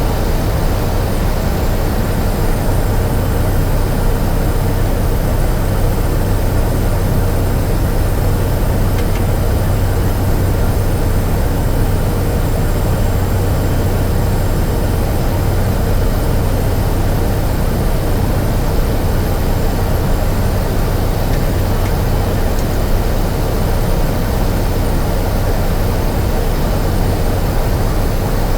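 Cessna 208 Caravan's PT6A turboprop engine and propeller running steadily, heard inside the cockpit as a constant drone with a low hum, on short final and through the landing.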